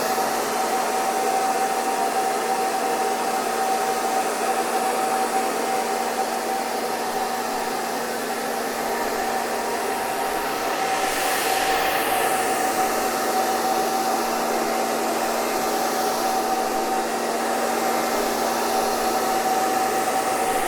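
Hair dryer running steadily: a rush of air with a steady whine from its motor. The hiss shifts briefly about halfway through.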